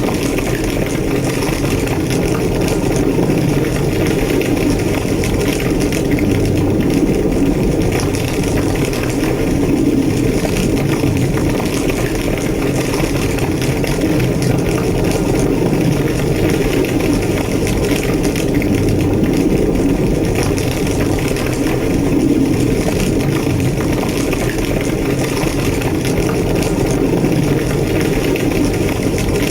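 Large building fire burning hard: a steady low roar with dense, continuous crackling over it.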